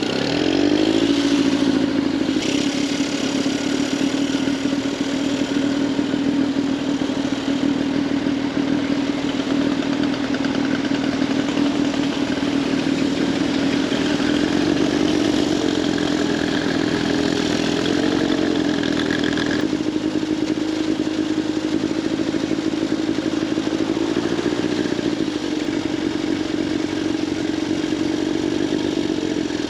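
Veteran Scott two-stroke twin motorcycle engine running while riding, a steady note that drops just after the start and rises briefly twice later on.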